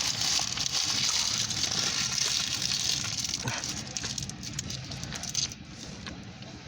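Freight train tank cars rolling past: a steady rushing of steel wheels on rail over a low rumble, with a few sharp knocks, easing off after about four seconds.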